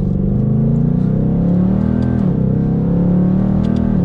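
2022 Ford Mustang GT's 5.0-litre Coyote V8 under hard acceleration, heard from inside the cabin. The engine note climbs, drops as the 10-speed automatic upshifts about two seconds in, then climbs again.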